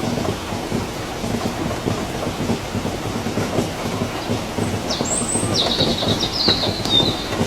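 Steady rain, a dense patter. About five seconds in, a bird gives a short run of high chirps lasting around two seconds.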